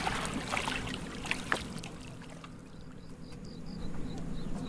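Water splashing and sloshing with scattered sharp clicks, dying down after about two seconds. Then a high chirping call, about five short chirps a second.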